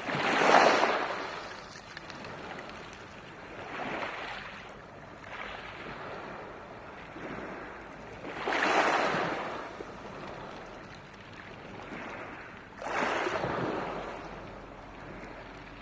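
Sea surf on a pebble beach: four waves break a few seconds apart, each a rising rush over the stones, the loudest near the start and about halfway through, with a steady wash between them.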